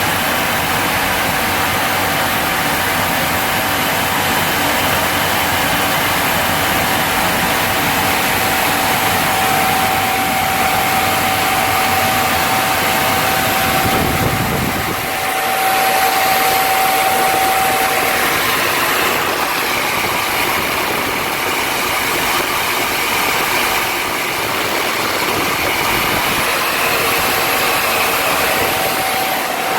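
Tinofix 431A inline can and glass washing machine running, a loud steady hiss with a steady whine under it. The sound changes briefly about halfway through, then carries on the same.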